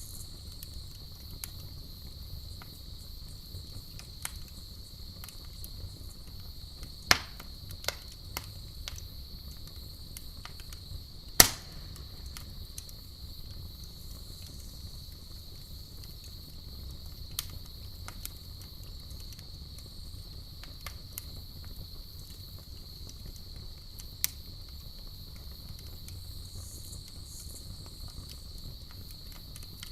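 Campfire crackling with scattered sharp pops, the two loudest about seven and eleven seconds in, over a low rumble of the fire and a steady high chirring of crickets.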